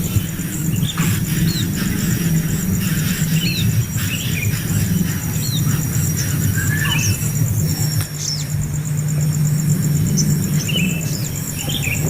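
Small birds giving short, quick chirps again and again over a steady low hum and a high, even pulsing buzz.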